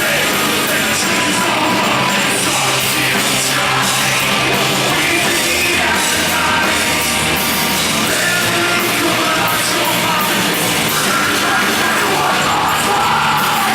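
Live rock band playing loud, with shouted vocals over heavy distorted music.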